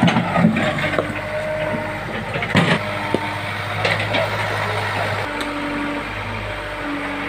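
An engine running steadily with a low hum, with a short knock about two and a half seconds in.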